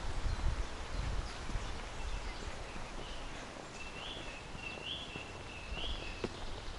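Footsteps on a forest path with soft scattered clicks, and a bird in the trees giving three short notes about a second apart near the end.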